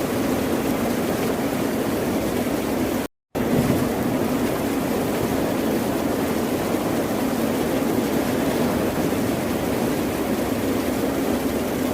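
Steady roar of ocean surf without distinct wave surges, cut by a short gap of total silence about three seconds in.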